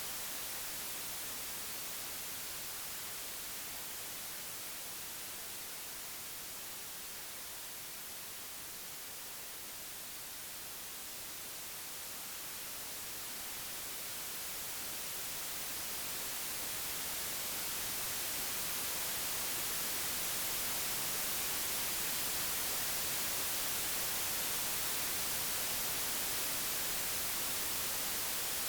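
Computer-generated pure white noise: a steady hiss strongest in the high treble, with no tones or events. Its level slowly dips about a third of the way in, then swells back up louder in the second half.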